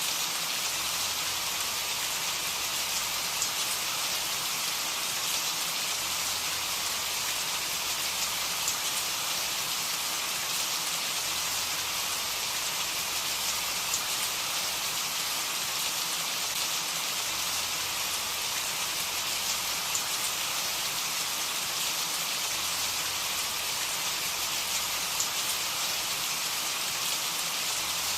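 Steady rain falling, an even hiss of many drops with scattered single drops ticking through it.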